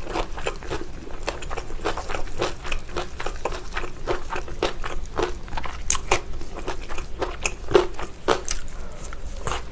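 Close-miked biting and chewing of a whole braised pig's trotter (jokbal): a dense, uneven run of short, sharp clicks.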